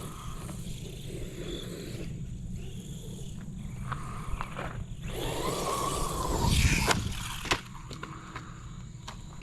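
Brushless RC desert truck driving over rough ground: a steady scraping of tyres on dirt, the motor's whine rising and falling about halfway through, and a few sharp knocks as the stiffly sprung truck bounces.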